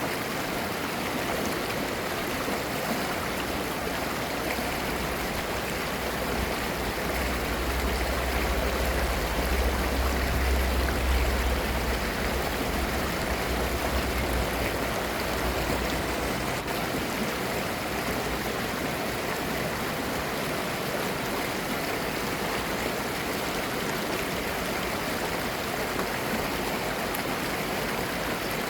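Valley stream of clear water running and babbling in a steady rush. A deep low rumble swells under it about a tenth of the way in and fades away a little past halfway.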